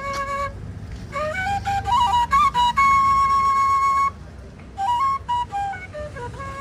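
Background music: a flute plays a stepping melody, holding one long note in the middle before a brief pause, then picking the tune up again over a low steady bass layer.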